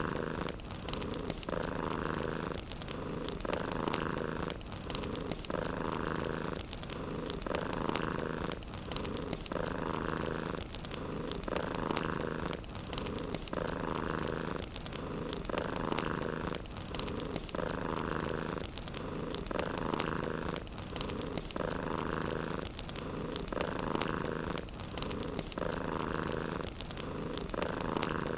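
Domestic cat purring steadily, the purr swelling and easing with each breath about every two seconds, over the soft crackle of a wood fire.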